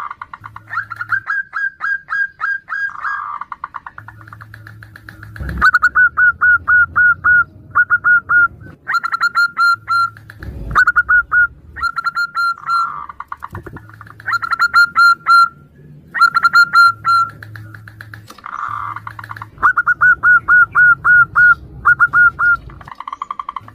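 Zebra doves (perkutut) singing back and forth: repeated runs of quick, staccato cooing notes, with lower coos between the runs. Two low thumps are heard, about five and ten seconds in.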